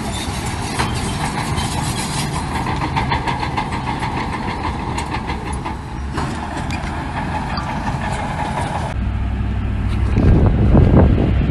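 Heavy diesel earthmoving machinery running steadily. About nine seconds in, the sound changes abruptly to a deeper, louder rumble with gusty noise.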